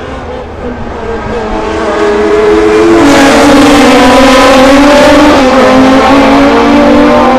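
Classic racing car engines at high revs, growing louder over the first few seconds as the cars come close, then running loud with the engine note stepping in pitch a few times.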